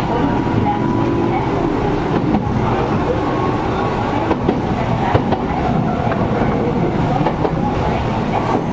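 Cabin sound of a Gakunan Railway 7000 series electric railcar running, with steady rumble and the air conditioning running, and a few sharp clicks from the wheels over rail joints.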